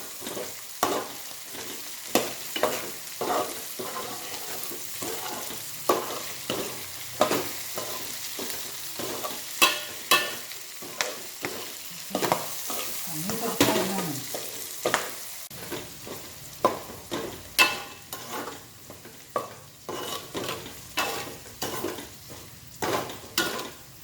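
Bird's eye chillies frying in hot oil in a pan while being stirred: a steady sizzle with frequent sharp pops and crackles as chillies burst, some of their stems not fully removed.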